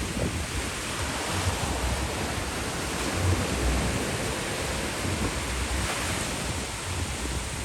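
Steady rush of ocean surf, with uneven low rumbles of wind buffeting the microphone.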